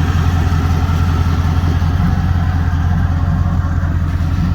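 The Jeep Grand Cherokee SRT8's swapped-in twin-turbo 6.0-litre LS V8 idling steadily, an even low hum with no revving.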